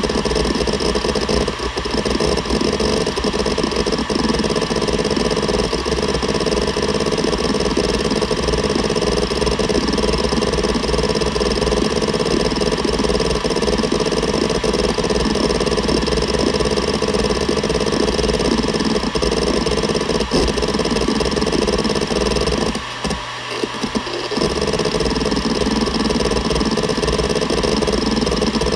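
Seagate Barracuda ES.2 ST31000340NS 7200 rpm hard drive running, with a steady spindle whine under a constant, dense chatter of head seeks. The sound briefly quietens for about a second roughly two-thirds of the way through, then carries on as before.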